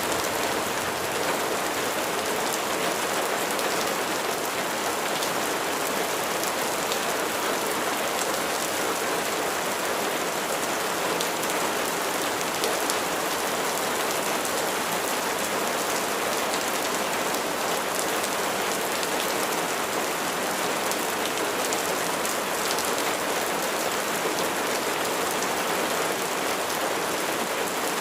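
Steady rain falling, a dense even patter of drops on a surface with no change in strength.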